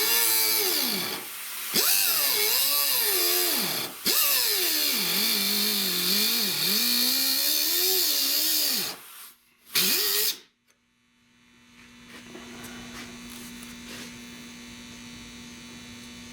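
A high-speed power cutting tool cutting across automotive sheet steel. Its pitch sags and rises as the wheel loads up in the cut, with brief pauses, then it stops about ten seconds in, leaving a steady electrical hum.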